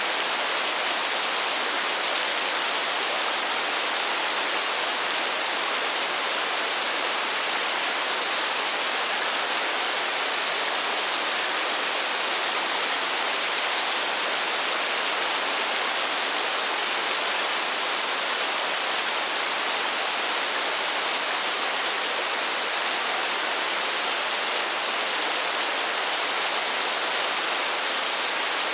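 Steady rain falling: an even, unchanging hiss with no single drops standing out.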